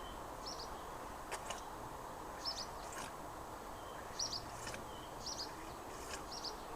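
A small bird chirping repeatedly, short high chirps every second or so, over steady background noise, with a few faint clicks.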